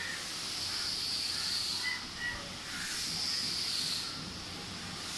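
A steady high-pitched outdoor hiss that swells and fades about every two and a half seconds, with a few faint short chirps.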